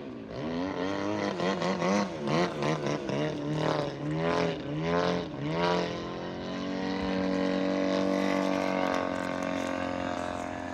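Radio-controlled model airplane flying overhead, its propeller drone swinging rapidly up and down in pitch over the first half. It then settles into a steady drone that slowly fades near the end.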